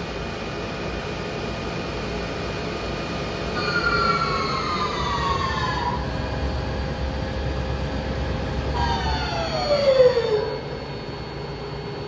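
Mazak Slant Turn 450 CNC lathe's spindle drive running with a steady electric whine and hum. About four seconds in its whine falls slowly in pitch, and about nine seconds in it falls more steeply, loudest just before it settles: the spindle slowing down.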